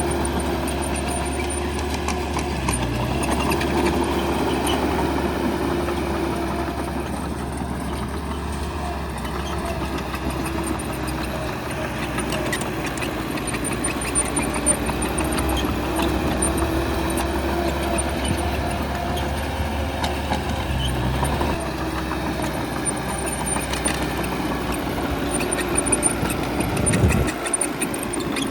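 Bulldozer's diesel engine running steadily under load, its pitch rising and falling as the throttle changes, with a short louder burst near the end.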